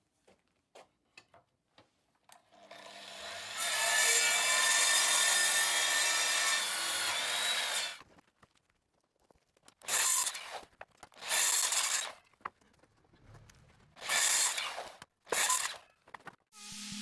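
Table saw cutting scrap wood for firewood. After a few light clicks, the saw comes up to speed and cuts steadily for about four seconds. Then come four short cuts of under a second each.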